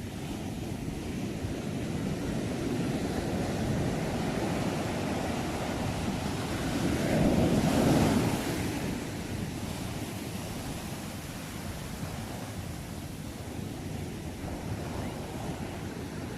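Sea waves washing ashore, a steady surf rush that swells as one wave breaks about halfway through and then eases back, with some wind noise on the microphone.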